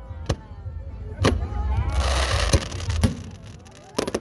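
Aerial fireworks bursting: a run of sharp bangs, with a second-long hiss about halfway and a quick cluster of bangs near the end.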